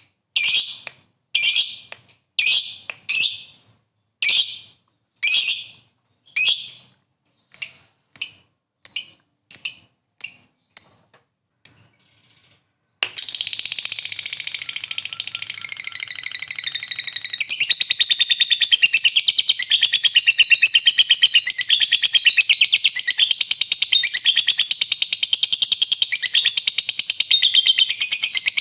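Lovebird calling. For the first half there is a series of separate sharp chirps that come faster and shorter. After a brief pause, the bird breaks into one long, unbroken, rapid chattering trill, the 'ngekek panjang' prized in fighter lovebirds.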